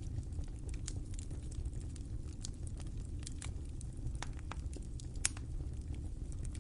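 Wood fire crackling in a fireplace: a steady low rumble of burning with irregular sharp pops and snaps scattered throughout, one louder pop about five seconds in.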